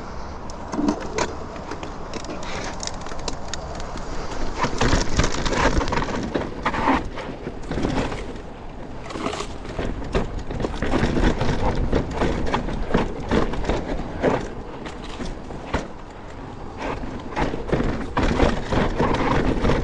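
Mountain bike descending a steep, rutted dirt trail: knobby tyres rolling and skidding on dirt, with the bike rattling and knocking over bumps many times a second.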